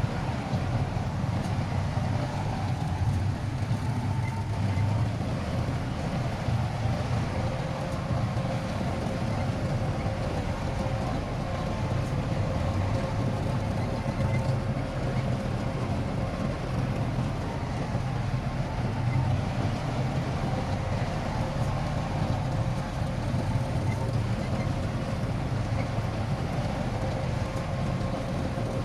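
Heavy diesel engine of earthmoving machinery running steadily under work, with a faint steady whine joining about seven seconds in.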